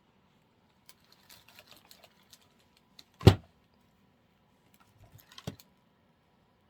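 Small plastic clicks and rustles of artificial flower stems being handled and pushed into a centerpiece, with one louder knock a little after three seconds in and a few more clicks near five seconds.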